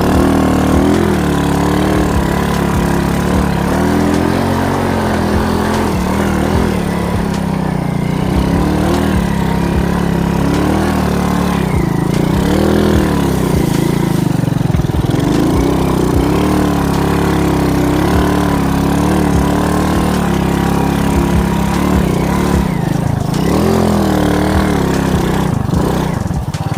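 Alfa moped's small four-stroke engine running under way, its pitch wavering up and down with the throttle, with scattered knocks as the bike jolts over rough ground.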